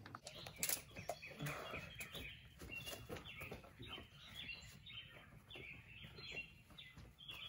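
Songbirds chirping over and over, faint and steady, with a couple of sharp knocks in the first second.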